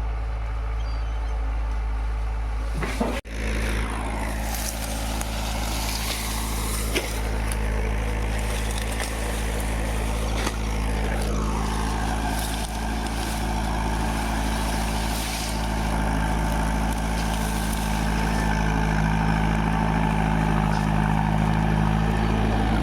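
Tractor diesel engine running steadily, getting a little louder over the last few seconds, with a brief sudden dropout about three seconds in.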